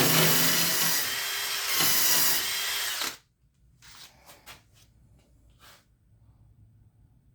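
Electric power tool running against metal parts, its level easing off and picking up again once before it stops about three seconds in. Faint clicks and small knocks of parts being handled follow.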